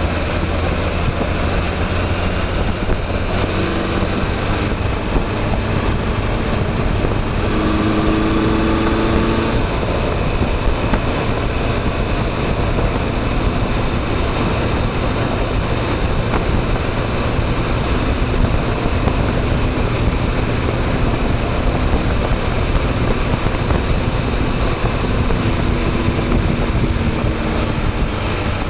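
Motorcycle engine running under way with a steady rush of wind on the microphone; the engine's pitch shifts briefly about eight seconds in and again near the end.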